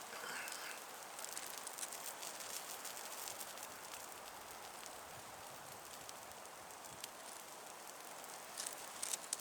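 Wood campfire crackling faintly: scattered small pops and clicks over a soft steady hiss.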